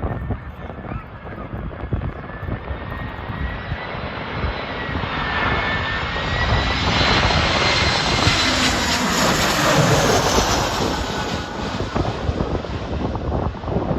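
EasyJet Airbus airliner coming in to land, its jet engines giving a rushing roar with a thin whine on top, growing louder to a peak about eight to ten seconds in and then easing slightly. Gusty wind buffets the microphone throughout.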